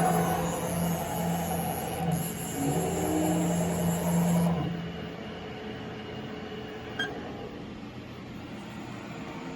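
A steady machine hum with a high hiss that cuts off about four and a half seconds in, leaving a quieter low rumble, with a single click near the end.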